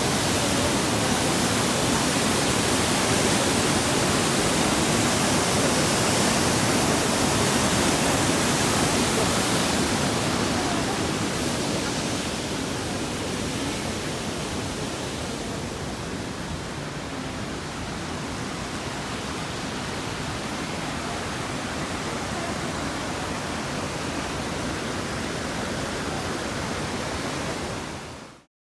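Rushing water of a canyon river or waterfall: a steady, loud hiss that eases a little after about ten seconds and stops abruptly near the end.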